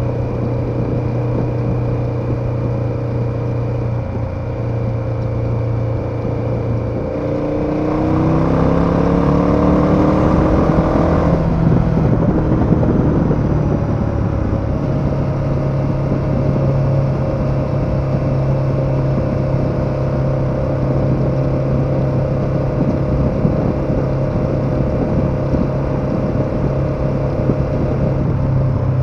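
KTM 1290 Super Adventure's V-twin engine under way: it runs steadily, then revs rising about eight seconds in, changes up a gear about twelve seconds in, and settles into a steady cruise.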